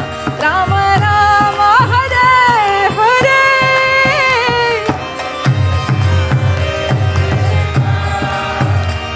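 Devotional kirtan music: a sung melody line gliding over steady sustained instrumental tones, with hand-drum strokes that grow heavier about halfway through.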